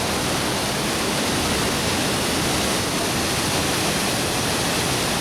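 Waterfall: a steady, unbroken rush of falling water that fills the whole range from deep to high.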